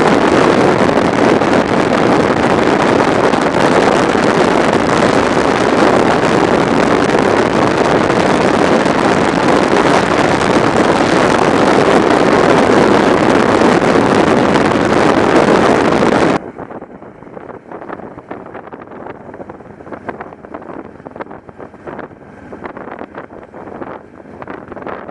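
Heavy wind noise on the microphone of a camera on a moving motorcycle, with the bike's running under it. A little past halfway it cuts off abruptly to a much quieter, fluttering wind noise.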